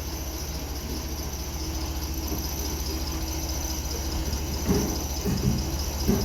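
Machinery running with a steady, pulsing low hum and a faint high squeal, with a few knocks near the end.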